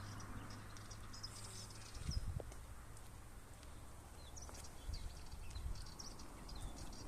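Small birds chirping: many short, high twitters and little sliding notes, with brief low rumbles about two and five seconds in.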